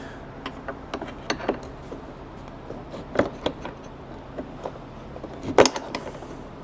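Hand tools clinking and scraping against the metal parts of an air-cart meter housing while parts are pried out. The sharp clicks come irregularly, and the loudest is a little after five and a half seconds in.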